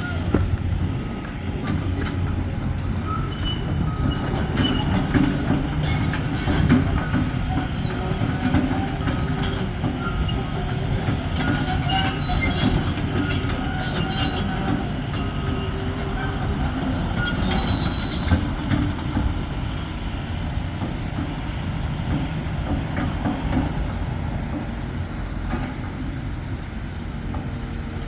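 CAT 336 tracked excavator travelling on its steel crawler tracks: the diesel engine runs steadily under scattered squeals and clanks from the track links and rollers, busiest in the first two-thirds.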